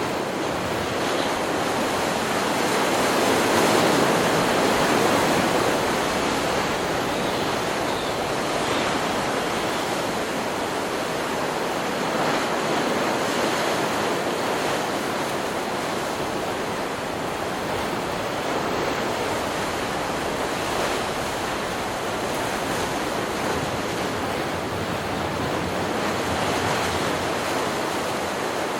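Ocean surf: waves breaking and washing ashore in a steady rush, swelling slightly louder a few seconds in.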